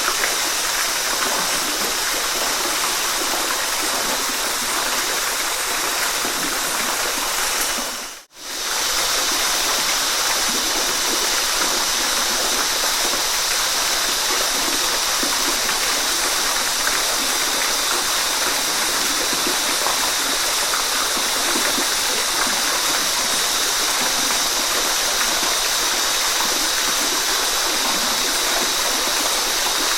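Waterfall, water rushing and splashing in a steady, even wash. About eight seconds in it fades out almost to silence for a moment, then comes back.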